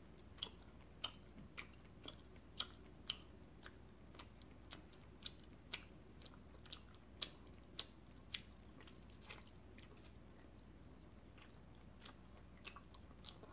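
Close-miked chewing of a long gummy worm: soft, sticky mouth clicks about twice a second, pausing for a couple of seconds about two-thirds of the way through before a few more.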